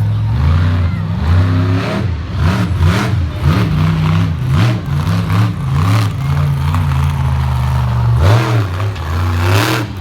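Monster truck engine revving up and down over and over, with a few short sharp knocks in the middle of the run.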